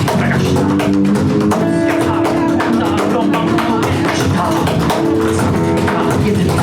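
Live band playing a song, loud and steady, with sustained notes over a regular beat.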